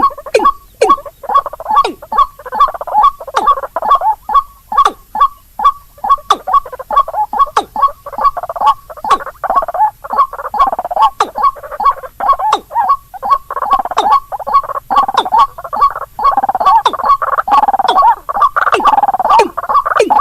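White-breasted waterhen calls mixed with rail calls in a bird-lure track: harsh notes repeated quickly, about two or three a second. From about two-thirds of the way through they become a busier, overlapping chatter.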